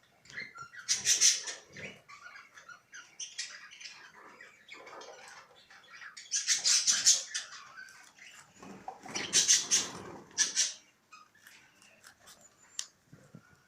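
Budgerigars chattering in rapid bursts, loudest about a second in, around seven seconds and around ten seconds, with quieter chatter in between.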